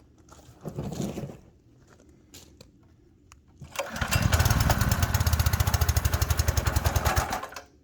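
Simpson PS3228-S pressure washer's small gas engine pull-started cold with the choke on, catching on the first pull and running with fast, even firing pulses. A brief noise comes about a second in, and the engine sound stops abruptly near the end.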